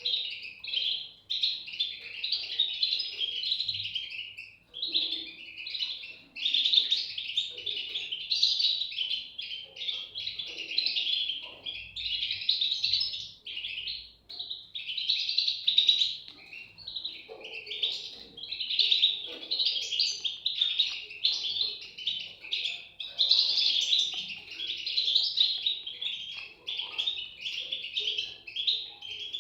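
European goldfinch chicks calling: a continuous high chirping chatter in bouts of a second or two, with short dips between.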